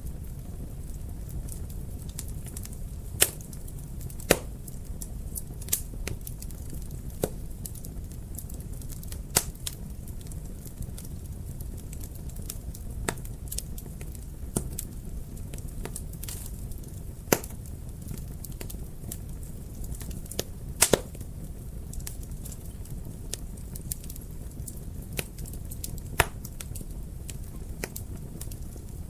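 Wood fire in a fireplace crackling: irregular sharp pops and snaps over a steady low rumble of the flames, a few louder pops scattered through.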